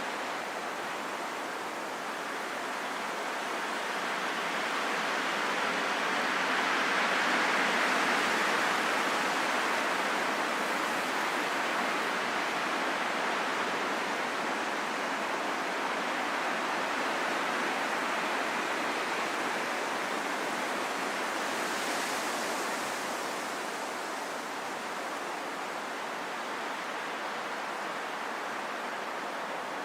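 Wind blowing as a steady hiss, swelling to a stronger gust about seven seconds in and then easing back.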